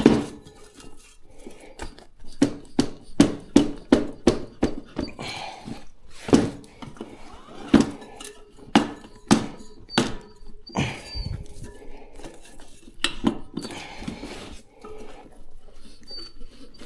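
Steel tyre levers clinking and knocking against a motorcycle wheel rim as the tyre bead is levered off, a run of sharp irregular metallic clicks.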